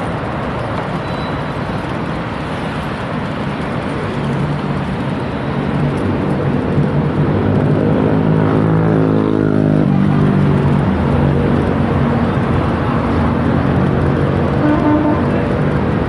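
Steady wind and rolling noise on the microphone of a moving bicycle, with a motor vehicle's engine growing louder from about four seconds in and rising in pitch near the middle as it speeds up.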